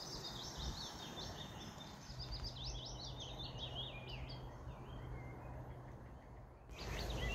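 Songbirds singing faintly, a busy run of short, quick chirping notes, over a faint low hum; the birdsong breaks off shortly before the end.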